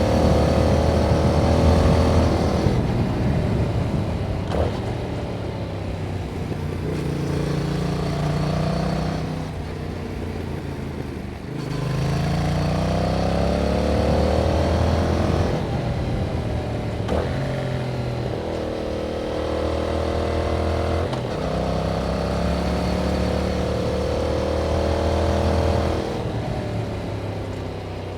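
A 2021 Yamaha MT-07's 689 cc parallel-twin engine on its stock exhaust, accelerating and shifting up several times. The pitch climbs and then drops at each shift, with stretches of steadier running in between.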